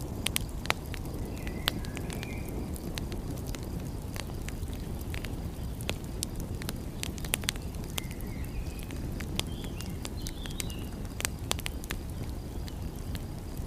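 Wood fire crackling, with frequent sharp pops and snaps over a steady low rumble. A few short high chirps come and go.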